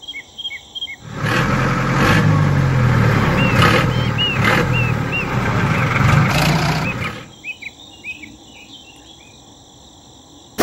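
Small birds chirping in short repeated calls. A loud engine-like running noise with a low hum cuts in about a second in and stops abruptly about six seconds later.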